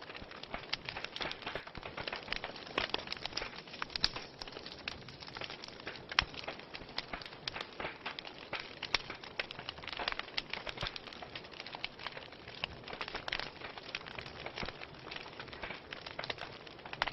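Wood fire burning in a fireplace, crackling and popping irregularly over a steady hiss, with a few sharper pops standing out.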